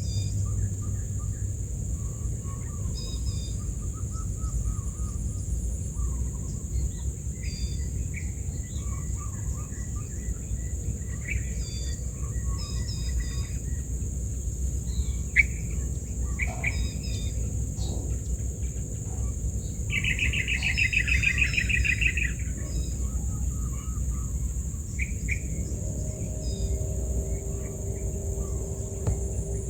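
Small birds chirping in short scattered calls, with a louder rapid trilled call about twenty seconds in, over a steady high insect buzz and a low rumble.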